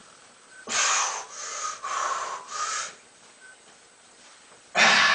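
A man breathing hard and forcefully through his mouth while lifting: four quick, hissing breaths about a second in, then a louder breath near the end.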